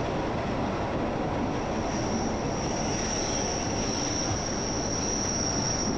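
Glacier Express train running along the track: a steady rolling rumble with a thin high whine over it that grows louder about two seconds in.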